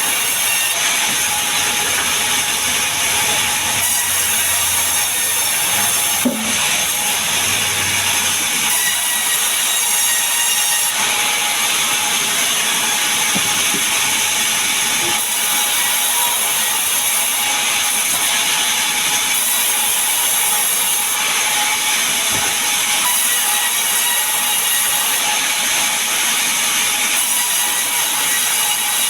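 Power saw running steadily through mahogany and pine timber, an even noise with a steady high whine. A single short knock about six seconds in.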